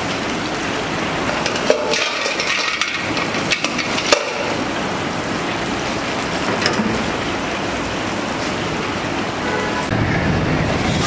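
Steady sizzling hiss of food frying in hot oil, broken by a few sharp clinks or knocks. A low traffic rumble comes in near the end.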